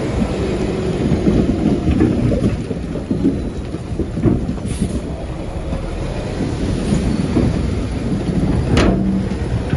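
Shantui bulldozer's diesel engine working, with a steady low rumble and irregular crunches and knocks of stone and earth being pushed. One sharp crack comes near the end.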